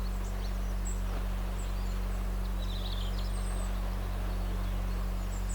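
Steady low hum with a few faint, short high chirps over it.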